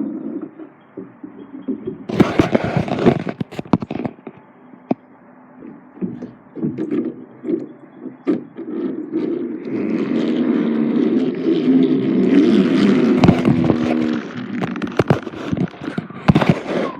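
Toy trains and track pieces clicking and knocking as they are run and handled, with a steadier, humming stretch from about ten to fourteen seconds in.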